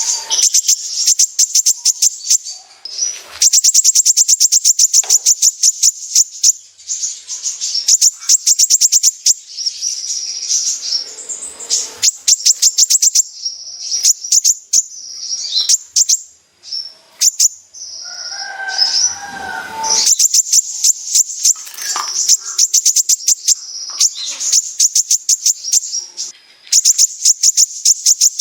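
Kolibri ninja sunbird singing in long runs of very fast, high-pitched ticking notes (its 'besetan' chatter), broken by short pauses and a lower, more varied phrase about two-thirds of the way in.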